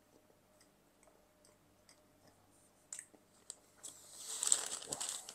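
Quiet chewing of a mouthful of cookie, with a couple of small clicks about three seconds in. From about four seconds in comes a louder crinkling of a paper wrapper being handled.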